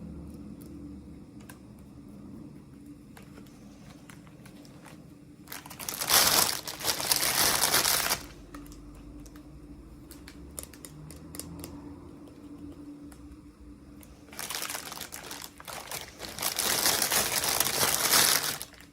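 Packaging being unwrapped by hand: two long bouts of crinkling wrapper, the second longer, with small clicks and taps of handling in between.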